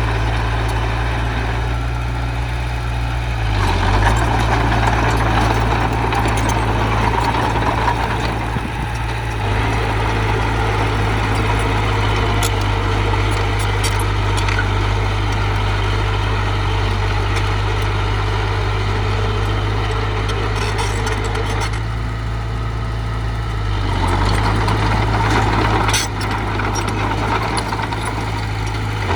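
Heavy diesel engine of earthmoving machinery running steadily at a deep, low pitch, with two louder, rougher spells over it, about four seconds in and again around twenty-four seconds in.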